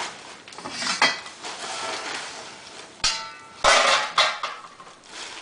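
Clanks and clatter of a metal chestnut-roasting pan being handled as the roasted chestnuts are tipped out for wrapping. A ringing metal clank comes about three seconds in, followed by a burst of clattering knocks.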